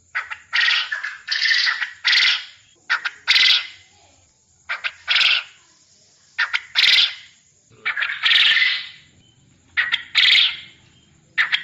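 A bird gives harsh, raspy calls over and over, each a short burst of under a second with short pauses between. Several calls are led by one or two sharp clicks.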